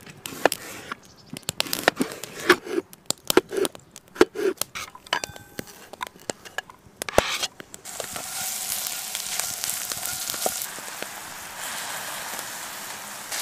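Knife slicing a red onion on a wooden cutting board: a run of sharp, irregular cuts and taps. About eight seconds in, a steady sizzle starts as onion, garlic and grated potato fry in hot oil in a pan, stirred with a spatula.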